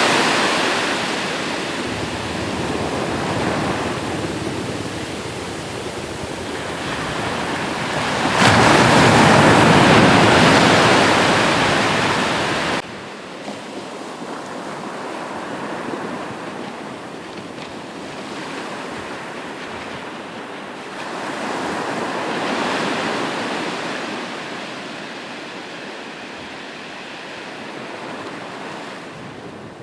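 Sea waves breaking and washing on the shore. A big wave breaks suddenly about a third of the way in; soon after, the sound drops abruptly to gentler, quieter surf that swells and fades slowly.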